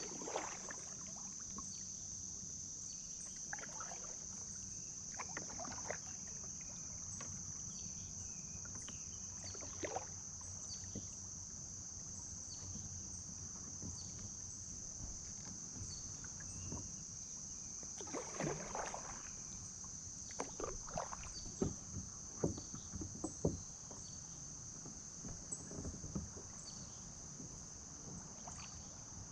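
Kayak paddle dipping into river water, with irregular splashes and drips, more frequent in a run of strokes about two-thirds of the way through, over a steady high-pitched hum.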